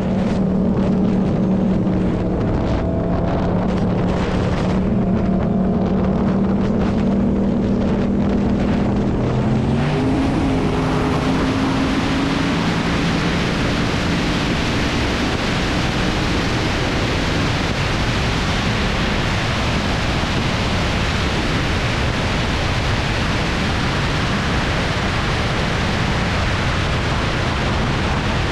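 Loud rushing noise of a vehicle at high speed, with wind on the microphone. It takes over about ten seconds in, after a stretch of steady droning tones that step and then rise in pitch, and it cuts off suddenly at the end.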